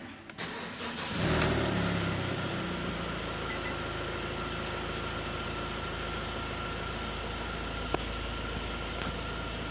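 Hyundai Tucson engine starting about a second in, flaring up briefly at start-up, then settling into a steady idle. One sharp click near the end.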